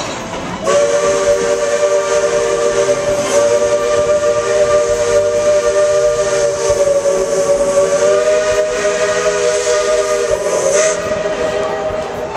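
Steam locomotive whistle giving one long blast of about ten seconds, several tones sounding together as a steady chord over a hiss of steam, starting just under a second in and cutting off near the end.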